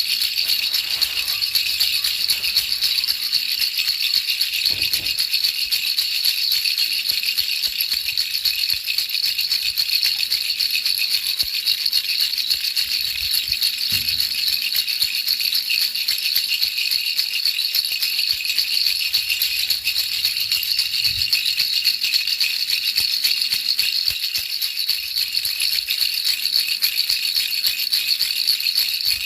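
Baby rattle shaken continuously, a fast, even shaking of small beads that makes a steady high-pitched hiss used as white noise.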